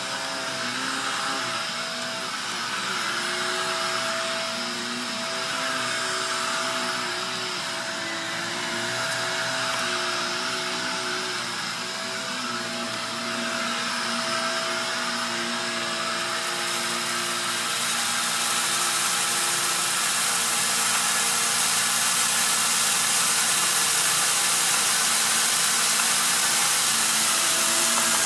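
Upright vacuum cleaner running steadily with a constant motor hum, its sound swelling and easing as it is pushed back and forth. About two thirds of the way in it turns louder and hissier.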